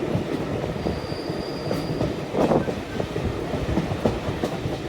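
Train running on the track: a steady rumble with wheels clicking over rail joints now and then, and a brief thin wheel squeal about a second in.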